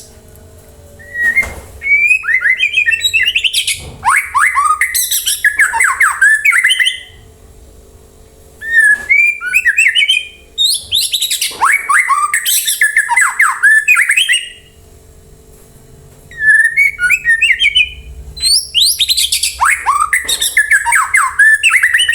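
White-rumped shama (murai batu) singing in three long bouts of loud, varied whistled phrases and fast trills, separated by short pauses.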